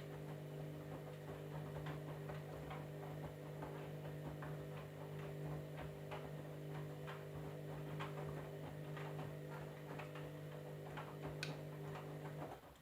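Candy washing machine running with a steady low hum and irregular light ticking, two or three ticks a second; the hum cuts off abruptly near the end.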